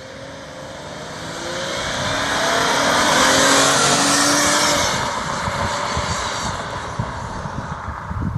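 Straight-piped 1998 Chrysler Concorde V6, muffler and resonator deleted, accelerating past. The engine note climbs in pitch and grows louder to a peak about three and a half seconds in, then fades as the car moves away.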